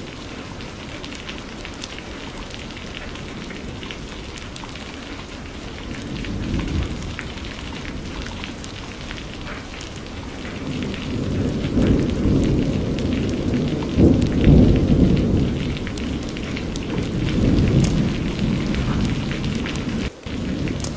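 Steady rain with scattered drop ticks, and a long low rumble of thunder that swells about halfway through and dies away near the end.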